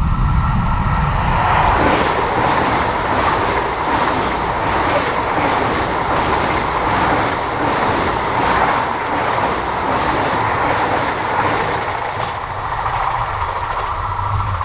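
A train passing at speed on a mainline: a steady, loud rolling noise of steel wheels on the rails with a faint rhythmic clatter, easing off near the end.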